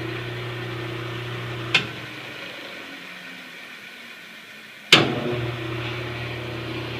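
Delta 28-303 band saw's electric motor running with a steady hum, working again after being rewired through its switch. Its switch clicks off about two seconds in and the saw coasts down, then clicks back on about five seconds in and the hum returns.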